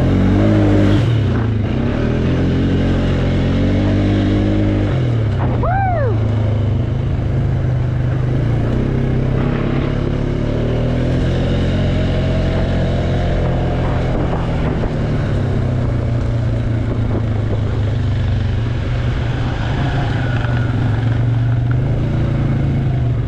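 ATV engine running, its pitch rising and falling as the throttle opens and closes. A short high sweep rises and falls about six seconds in.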